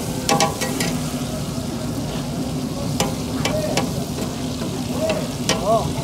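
Liver and tomato sizzling on a large flat iron griddle, a steady frying hiss, while a metal spatula scrapes and knocks against the iron several times.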